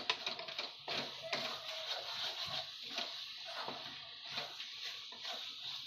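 Onions and masala frying in a non-stick kadai, a steady sizzle, while a wooden spatula stirs and scrapes the pan in quick, irregular strokes.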